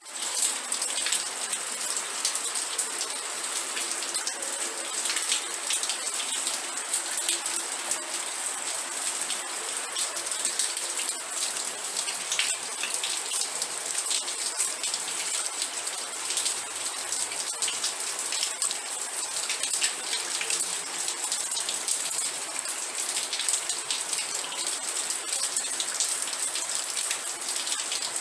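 Steady rain falling, a dense even hiss with many individual raindrops pattering on a surface.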